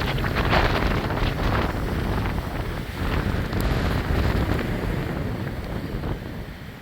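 Thunderstorm wind gusts buffeting the microphone: a rough, low rushing noise that surges and drops, strongest about half a second in and easing near the end.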